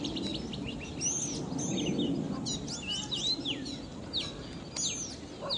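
Several songbirds chirping and whistling in quick, overlapping calls that sweep down and up in pitch, over a low steady rumble.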